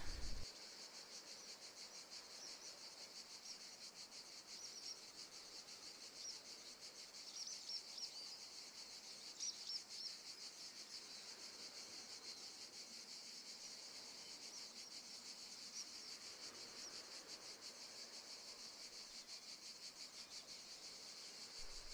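Faint background nature sound: a steady, high, rapidly pulsing chorus of crickets, with a few faint bird chirps partway through.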